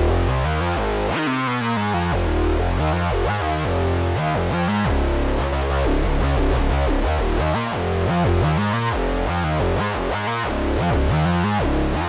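Sequential Trigon 6 analog polyphonic synthesizer playing a preset: a continuous run of quickly changing notes over a strong bass line.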